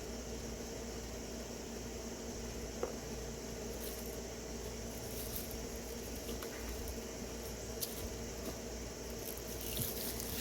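Dry leaves crackling and rustling in short bursts as they are pulled by hand out of a car's engine bay, with a few light clicks, over a steady background hiss and hum.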